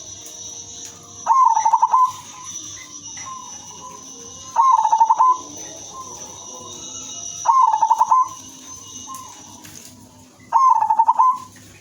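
Zebra dove (perkutut), a female, cooing its rapid, stuttering call four times, about every three seconds, with fainter coos between. A steady high whine runs underneath.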